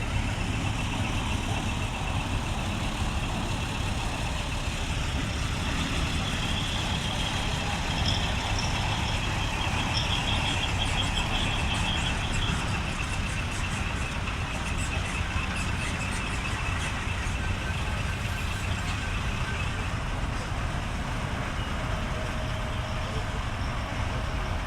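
Large truck's diesel engine idling steadily, with a faint high steady tone over it that stops near the end.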